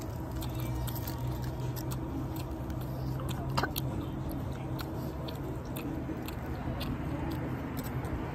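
People chewing burritos close to the microphone, with many short clicks and smacks of the mouth, over a steady low hum.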